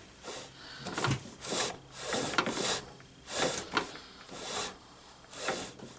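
Garden tractor's newly installed steering being worked back and forth, giving a series of scraping, rubbing strokes about one a second as the shaft turns in its worn bushings.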